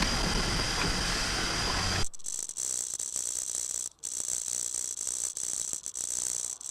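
Dash-cam recording of a car driving, with steady road and engine noise. About two seconds in, this cuts off abruptly and gives way to a quieter high hiss with light, irregular rattling and clicking.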